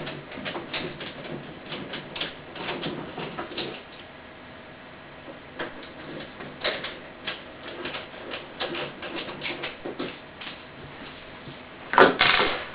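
Irregular light clicks and taps of hand-tool work on refrigerator door handle hardware, pausing briefly around four to five seconds in, then a louder clatter near the end.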